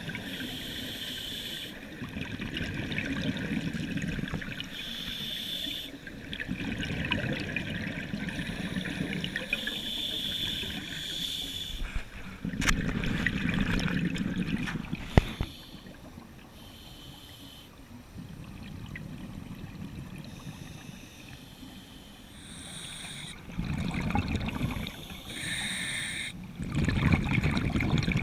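Scuba diver breathing through a regulator underwater: a short hissing inhale, then a longer rush of exhaled bubbles, repeating about every four to five seconds.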